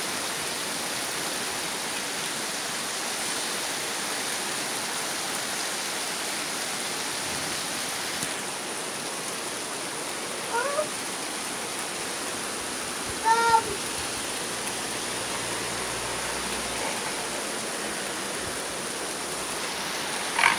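Steady rain falling, an even hiss. About halfway through, two brief high-pitched cries cut through it, the second and louder a few seconds after the first.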